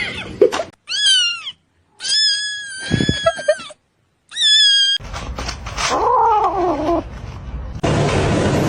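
Cat meowing: three high-pitched meows, the middle one long and drawn out, then a lower, falling meow. A steady rushing noise starts near the end.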